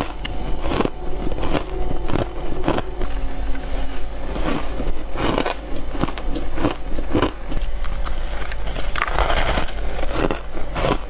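Mouth crunching and chewing humidifier frost: sharp, crisp crunches about once or twice a second, with crackling between them.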